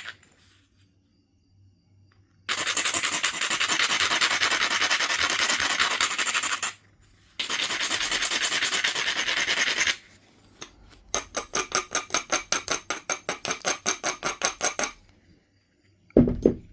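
An abrading stone rubbing along the edge of a piece of Knife River flint: two long spells of steady grinding, then a run of quick short strokes, about five a second. This is the edge being ground down to prepare striking platforms. A single short knock comes near the end.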